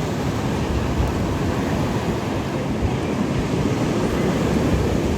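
Ocean surf washing with wind buffeting the microphone: a steady rushing with no breaks.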